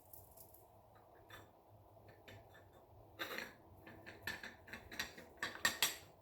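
Irregular clicking and scraping of hand tools working wood, sparse at first and coming thick and louder in the second half.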